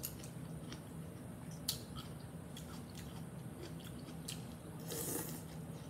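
Soft mouth sounds of chewing stir-fry vegetables and noodles, with a few faint clicks of metal chopsticks picking food from a glass bowl.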